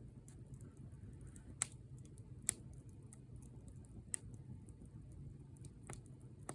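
Bonfire of burning wood crackling: scattered small pops, with four sharper, louder snaps spread through, over a low steady rumble.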